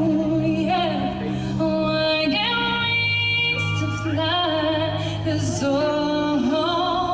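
A woman singing long held notes with vibrato over a backing track.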